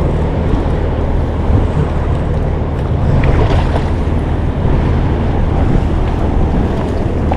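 Wind buffeting the microphone and waves washing around a small fishing boat, a steady rushing noise with a constant low hum beneath it.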